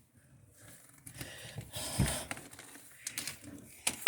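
Clicks, rustling and knocks from handling a Lasko box fan and its plug, with a dull thump about two seconds in. The fan's motor makes no sound: it is burned out.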